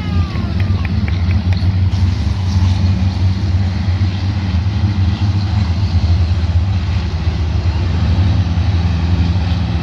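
A vehicle engine running steadily, a deep even hum that holds the same pitch throughout.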